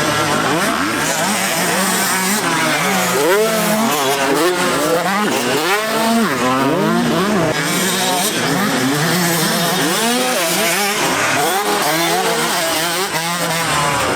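Several motocross bikes racing together, their engines revving up and dropping back again and again, with the overlapping engine notes rising and falling.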